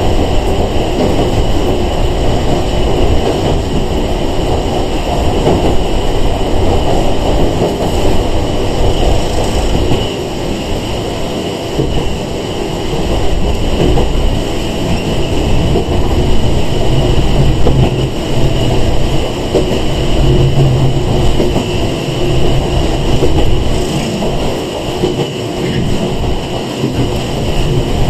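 Steady running noise heard inside the cabin of a Sangi Railway 101 series electric train under way: a continuous rumble of wheels on rail and traction gear, with a low hum coming in around the middle.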